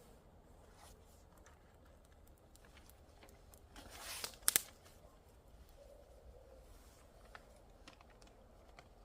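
Paper and kindling being handled while laying a fire: faint rustles and small crackles, with a brief tearing or scraping rush about four seconds in that ends in two sharp snaps.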